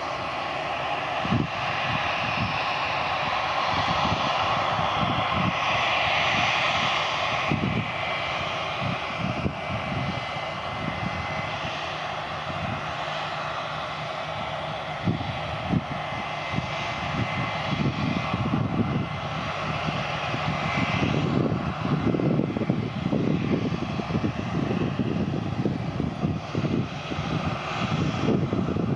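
AirAsia jet airliner's engines running, a steady rushing sound with an uneven low rumble underneath that grows stronger in the last several seconds.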